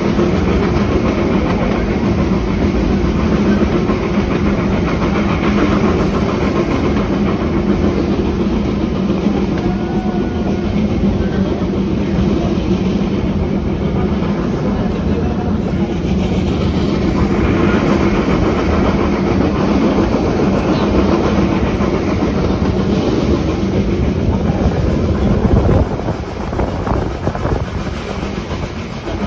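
Puffing Billy narrow-gauge steam train rolling along, heard from inside an open carriage: a continuous rumble and clatter of the wheels on the rails over a steady low drone, easing a little near the end.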